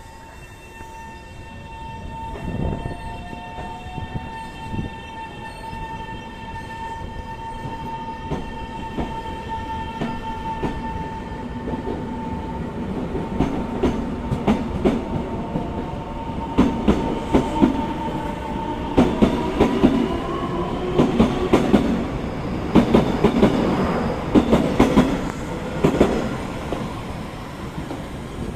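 A Taiwan Railways train running past, its wheels clattering over rail joints in a quick rhythm that grows louder through the second half and peaks near the end. A steady high whine sounds through the first part.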